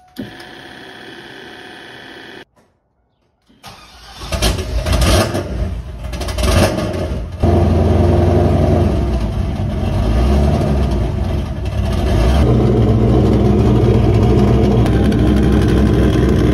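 A TurboWerx Exa electric turbo oil scavenge pump whines steadily for about two seconds with the ignition on, showing it works. After a short gap, a forged LS2 402 ci V8 with a rear-mount turbo cranks and catches on a sub-zero cold start, then idles loudly and settles. The exhaust is still off after the turbo, and the turbo outlet blows out old oil as smoke.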